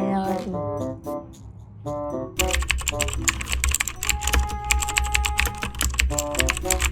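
Background music with a stepping melody, joined about two and a half seconds in by fast, continuous computer-keyboard typing over a heavy low bass.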